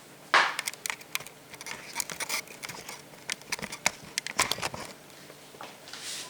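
Kitchen utensils clattering at a cooking pot: a run of irregular sharp clicks and knocks, the loudest about a third of a second in and another cluster past the middle.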